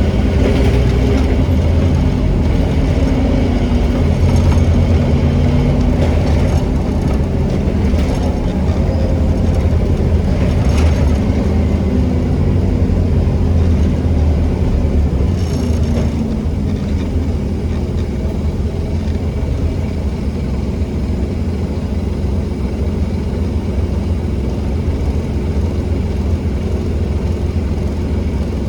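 Scania N270UD OmniCity double-decker bus under way, its diesel engine running steadily, heard from on board. A little past halfway the engine note falls and the sound gets somewhat quieter, with a few brief rattles along the way.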